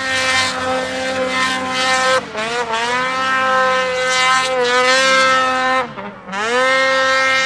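Snowmobile engine revving hard at high, steady revs, its pitch dipping briefly a few times as the throttle eases. Near the end it drops away almost to nothing, then climbs straight back to full revs.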